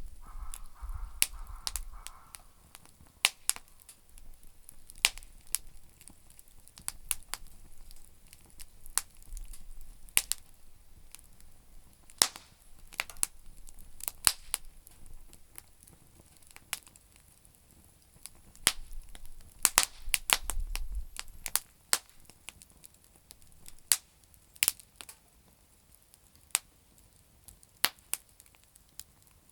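Campfire of damp firewood crackling, with irregular sharp pops of varying loudness and a faint steady hiss. A low rumble comes in briefly at the start and again about twenty seconds in.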